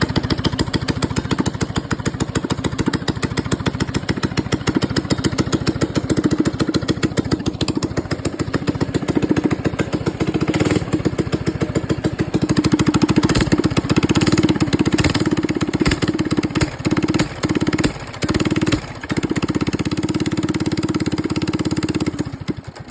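Baja BT200X mini bike's small single-cylinder engine running on choke, firing steadily, then stumbling with several brief dropouts and dying abruptly near the end as the choke comes off. The owner puts the stalling down to a dirty carburettor that needs cleaning.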